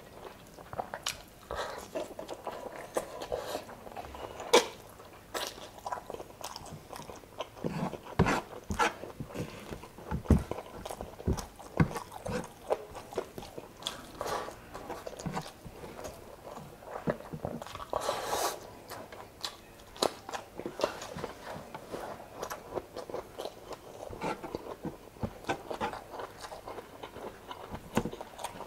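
Close-miked eating: a person chewing and biting into saucy chicken adobo and rice, with wet mouth smacks and irregular short clicks.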